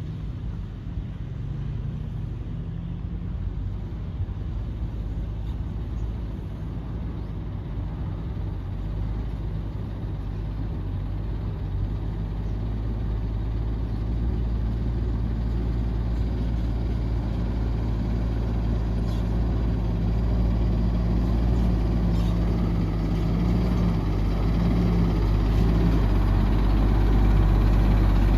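Heavy diesel engine of construction machinery running steadily, growing gradually louder.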